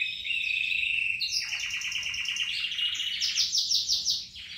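A songbird singing continuously in long, rapid trills that jump to a new pitch every second or so.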